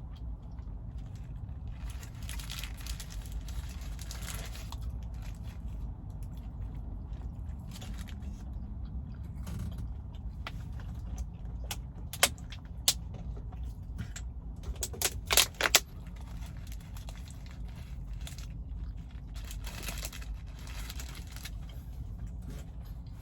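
Steady low rumble inside a car cabin, with a few rustling stretches and a cluster of sharp clicks and crackles about twelve and fifteen seconds in, the loudest sounds.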